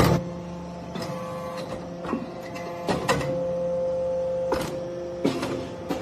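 Hydraulic briquetting press for brass chips running: a steady motor-and-pump hum with about half a dozen sharp clicks and knocks from the press cycle.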